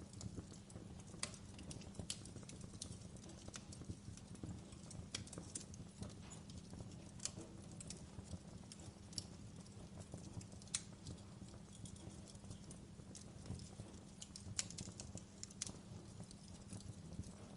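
Wood fire burning in a fireplace: irregular sharp crackles and pops, a few a second, over a low steady rumble.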